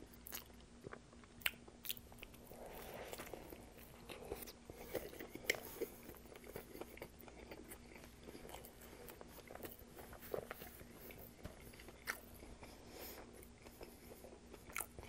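Close-up chewing of a mouthful of a Subway sub sandwich on Italian herb and cheese bread: faint, soft wet mouth sounds with scattered small clicks and crackles. A faint steady hum runs underneath.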